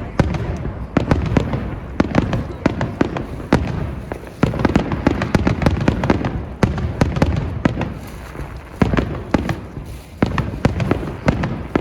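Aerial fireworks display going off in rapid succession: a dense run of sharp bangs and crackling bursts over a continuous low rumble of booms.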